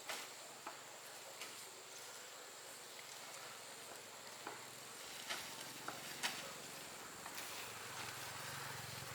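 Faint outdoor background with a thin, steady high whine, broken by scattered light clicks or taps, the sharpest about five and six seconds in.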